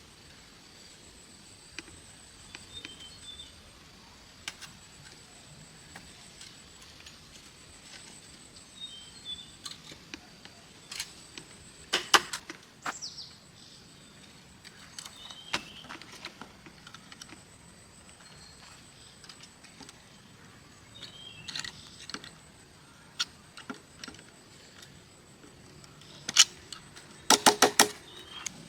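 Scattered sharp knocks and clicks, with two loud bursts of quick strokes, over a steady high insect trill.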